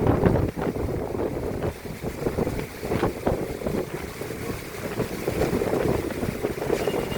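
Strong wind buffeting the microphone in uneven gusts, a low rushing noise that rises and falls, from stormy weather during heavy rain.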